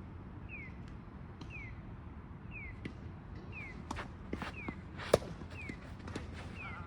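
Tennis balls being hit and bouncing on the court: a few light knocks from about four seconds in, and one sharp, loud racket strike just after five seconds. A faint short falling chirp repeats about once a second throughout.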